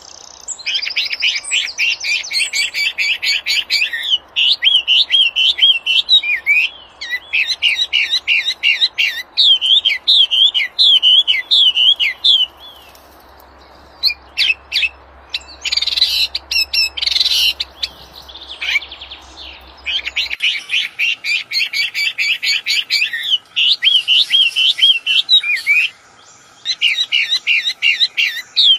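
Wambi songbird singing loudly and persistently, alternating fast buzzy trills with wavering, warbled phrases, with a short pause about halfway through.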